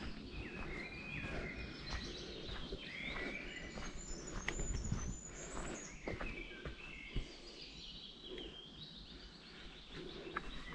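Several songbirds singing, with short chirps and warbling phrases throughout, and scattered sharp clicks.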